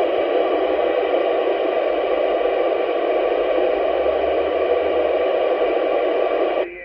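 Radio receiver static: a steady, loud hiss from an open channel with no voice on it, cutting off abruptly near the end as a station's reply comes in.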